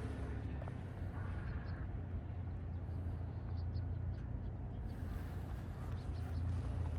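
Steady low rumble of street traffic, with a few faint, short, high chirps in the middle.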